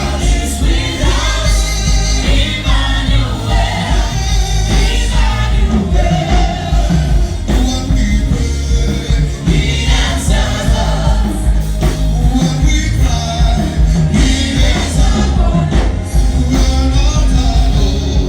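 A woman singing a worship song over loud band accompaniment with heavy bass.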